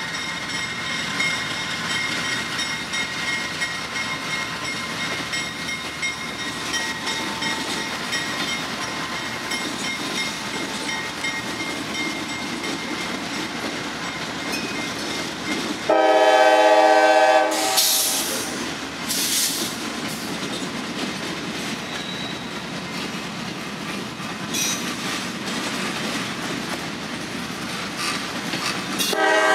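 Freight train flatcars rolling past with a steady clatter and rumble of wheels on rail. A train horn blows once, loud, for about a second and a half some sixteen seconds in, and starts again just at the end.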